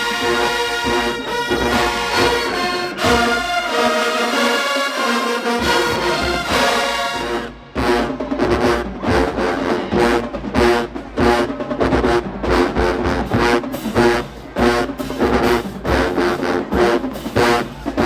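Marching band brass section playing in the stands: long held brass chords for the first seven seconds or so, then after a brief break a driving rhythm of short, clipped brass hits.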